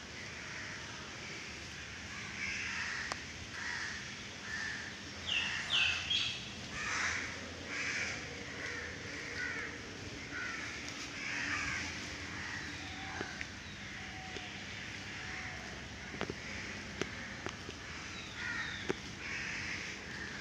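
Birds calling among the trees: a string of short, repeated calls, thickest in the first half, with a few quick higher chirps about five to six seconds in. A few faint clicks come later over a steady outdoor hiss.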